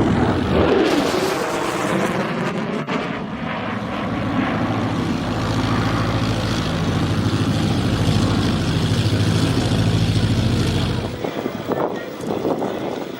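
Loud jet noise from an F-22 Raptor passing, a rushing roar that sweeps in pitch as it goes by, then settles into a steady low drone that drops away near the end.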